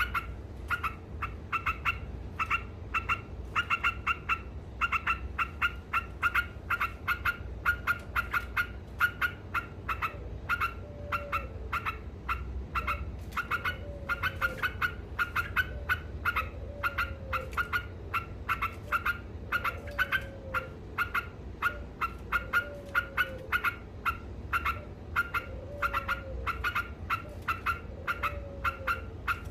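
Yellow-vented bulbul (trucuk) singing its long, nonstop chattering 'ngekek' song: a quick run of short repeated notes, several a second. From about a third of the way in, a lower, bending call sounds about every second and a half, over a low hum.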